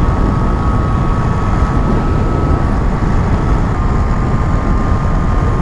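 Motorcycle riding at steady speed: constant rush of wind and road noise with the engine running underneath, and a thin steady whine.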